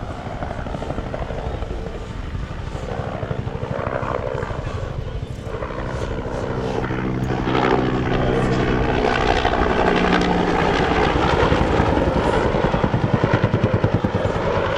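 Bell helicopter with a two-blade main rotor and a Lycoming T53 turboshaft flying by, growing louder through the first half. Near the end the rotor's blade slap pulses strongly.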